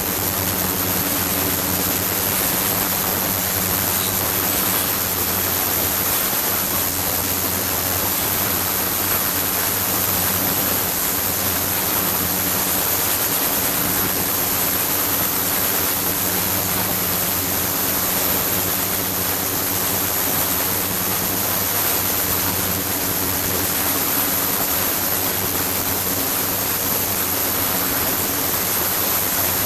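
Flowing-water ultrasonic setup running: a steady rush of water with a low mains-like hum and a high steady whine. It starts abruptly.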